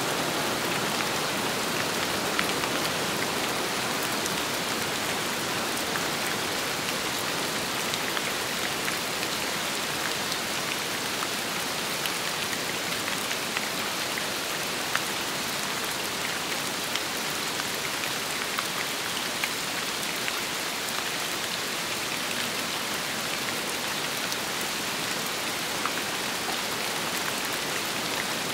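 Steady rain falling: an even hiss with many individual drops ticking sharply through it.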